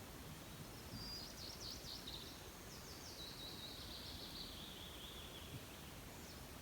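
A small songbird singing one high song about five seconds long: a quick run of sweeping notes that slides gradually lower toward the end. A steady faint background hiss runs underneath.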